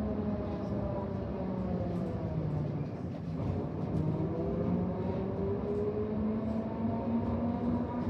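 Electric tram's traction motors whining, heard from inside the car: the pitch falls over the first few seconds as the tram slows, then rises again as it picks up speed.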